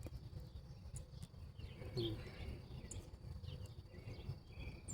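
Birds chirping in short, scattered calls, one a little louder about two seconds in, over a steady low rumble.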